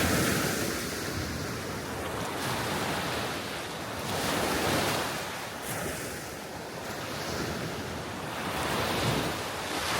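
Gentle sea waves washing onto the shore, the wash swelling and fading about every four to five seconds, with wind on the microphone.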